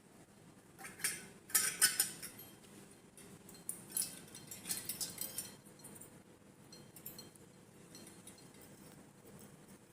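Small metal parts clinking and clattering as they are handled, in two clusters of sharp clinks: one about a second in and one around four to five seconds in.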